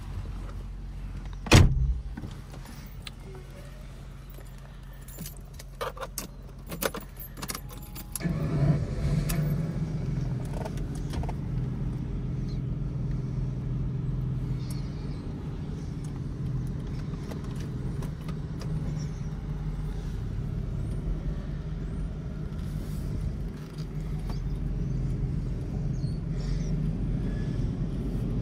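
1992 Jaguar XJS heard from inside the cabin, its engine running at idle under some clicks and one sharp knock about a second and a half in. About eight seconds in, the engine note grows louder as the car pulls away, then stays steady while it drives slowly.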